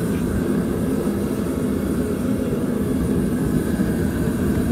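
A steady low mechanical drone, like a motor running, with no starts or stops.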